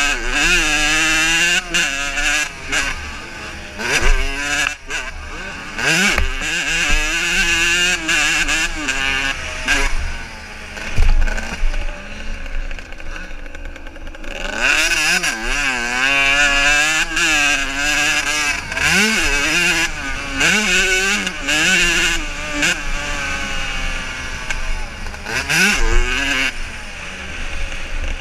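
Motocross bike engines racing on the track, revving up and dropping back again and again as riders work through the gears. Several bikes overlap at times, going quieter for a few seconds midway before the engines rise again.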